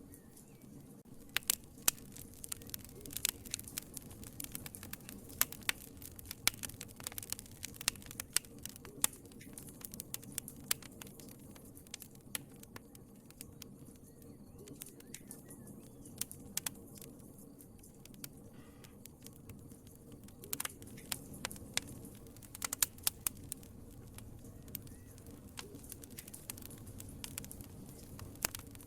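Wood fire crackling in a fireplace: irregular sharp pops and snaps over a steady low rumble of burning, with a cluster of louder pops about a fifth of the way in, and more around two-thirds and three-quarters of the way through.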